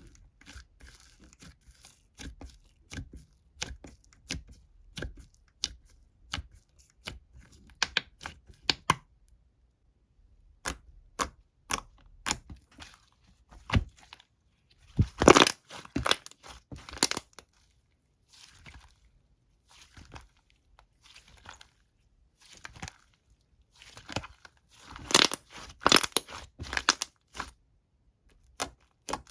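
Crisp, irregular crackling and tearing as something is torn and crumpled by hand, coming in bursts with short pauses and loudest around the middle and near the end.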